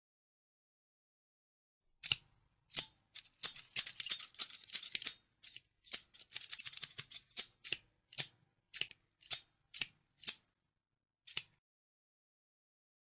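Scissors snipping. After a silent pause comes a quick run of rapid snips, which then slows to single snips about half a second apart and stops well before the end.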